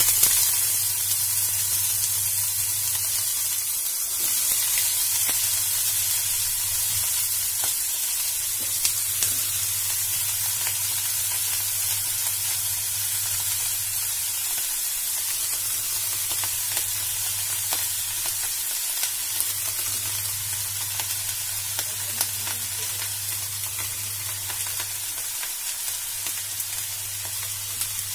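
Raw brinjal (eggplant) pieces sizzling in hot oil in a nonstick frying pan as they are added. The sizzle starts suddenly and eases gradually.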